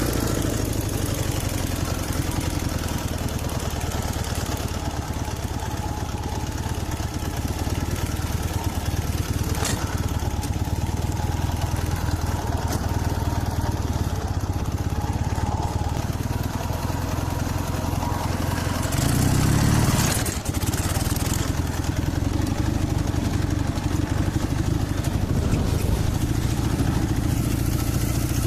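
Dnepr MT-11 motorcycle's flat-twin engine running steadily, freshly tuned with new plugs, adjusted carburettors and set ignition timing. About two-thirds of the way in it briefly gets louder.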